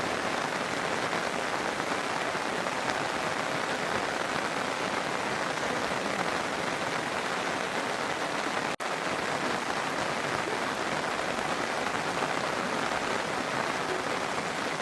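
Heavy rain falling as a steady, even hiss, broken once by a split-second gap about nine seconds in.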